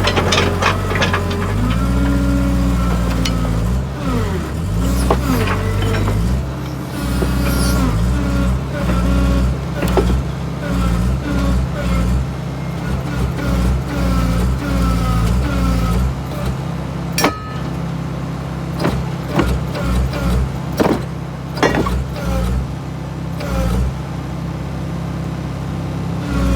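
Excavator diesel engine running under changing hydraulic load, its pitch rising and dipping, with sharp metal clanks and knocks now and then, as the machine is worked to get its thrown track back onto the rollers.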